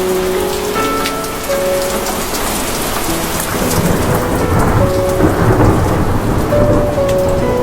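Steady heavy rain with thunder rumbling, the low rumble swelling about halfway through and rolling on to the end.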